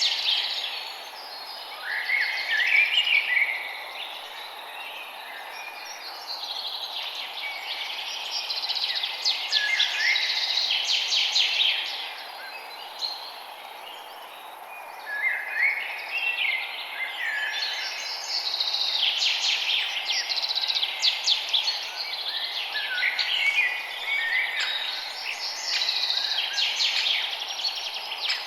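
Forest birds singing: bouts of rapid chirps and trills that come and go every few seconds, over a steady background hiss.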